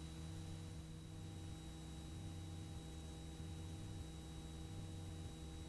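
Faint steady electrical hum and hiss with several constant tones on the cockpit audio feed, heard while the intercom is quiet between calls.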